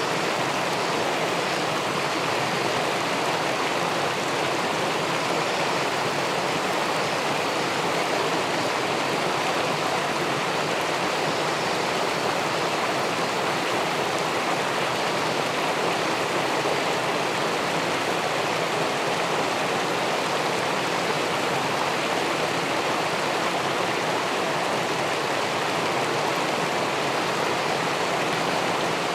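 River water pouring over a weir into the pool below, a steady, even rushing.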